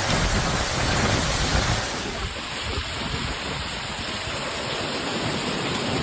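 Steady rushing noise of storm water, with wind buffeting the microphone in gusty low rumbles; the sound changes slightly about two seconds in.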